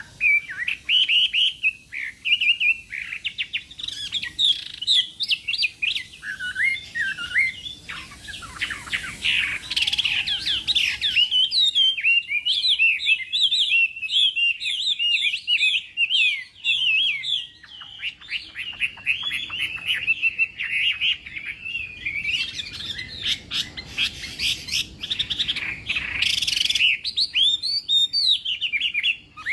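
Chinese hwamei singing a long, loud run of fast, varied whistled phrases and trills with hardly a pause, thinning briefly about two-thirds through. This is the hard-driving competition song ('hót đấu') that hwamei keepers train for.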